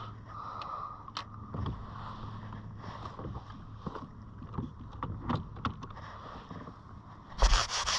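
Scattered knocks and clicks of gear being handled on a plastic fishing kayak over a steady low hum. About seven seconds in, a loud burst of rapid rattling strokes begins.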